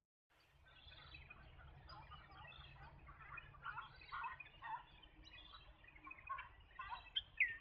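A flock of Eurasian coots calling: many short, overlapping calls in a dense chatter, with a few louder sharp notes near the end, over a low rumble.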